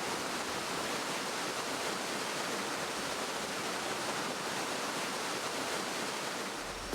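Steady, even rushing noise with no pitch, like running water or wind. It starts sharply as the music cuts out and stops just as the music comes back.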